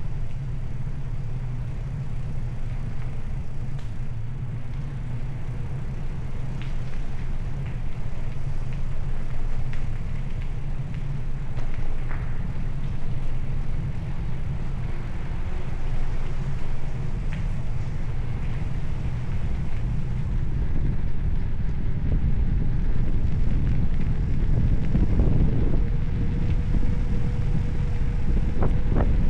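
Steady low rumble of wind on the microphone during a bicycle ride, getting a little louder near the end.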